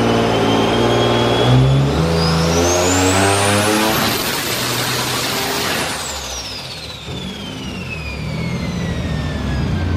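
Turbocharged Nissan 370Z's 3.7-litre V6 making a full-throttle dyno pull. The engine note and the turbo whine climb in pitch for about four seconds and hold near the top. About six seconds in, the throttle closes and the turbo whine falls away as the engine winds down.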